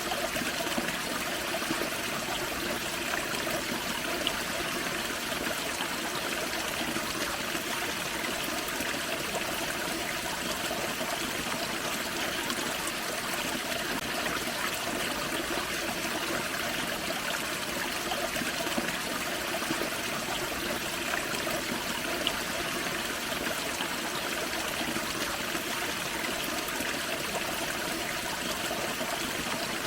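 Small waterfall on a forest creek: water spilling and splashing over rocks, a steady trickling rush.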